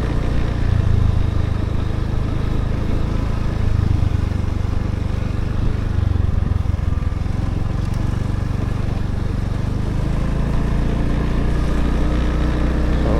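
Motorbike engine running steadily while being ridden, its low note shifting a few times with the throttle.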